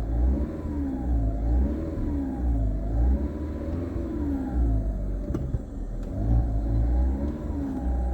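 Car engine revved over and over in quick blips, the pitch rising and falling about once a second over a low rumble, as the engine is warmed up.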